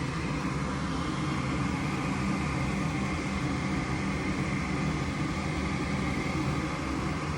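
Gas furnace running its start-up with a steady motor hum, the burners failing to light; the owner thinks the pressure switch may need replacing.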